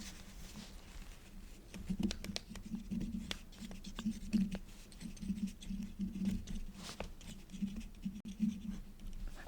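Quill pen nib scratching across paper in short, irregular strokes, with many small sharp ticks, busier from about two seconds in.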